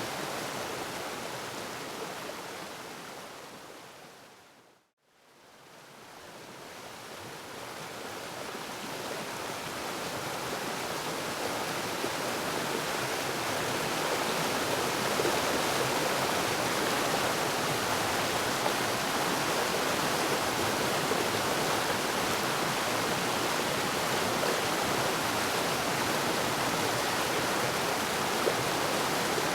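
Waterfall rushing, a steady wash of falling water. It fades out to silence about five seconds in, then gradually fades back up over the next several seconds and holds steady.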